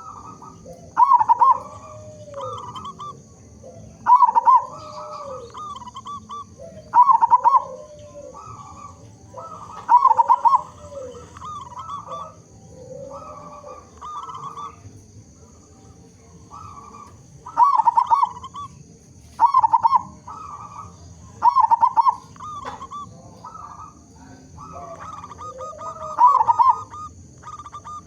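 Zebra dove (perkutut) cooing: loud bursts of rapid coo notes repeated every two to three seconds, with softer cooing between them, and a stretch of only softer calls in the middle. A faint steady high hiss runs underneath.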